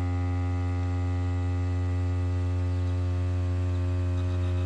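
Steady low hum with a stack of even overtones, unchanging throughout.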